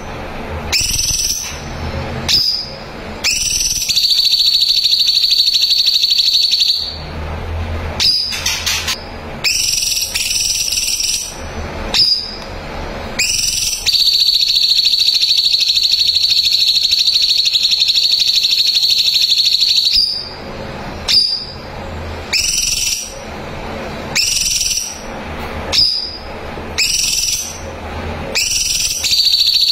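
Cucak cungkok singing loudly: short rising whistled notes, broken twice by long, rapid, even trills held for several seconds, the drawn-out 'tembakan' burst it is prized for.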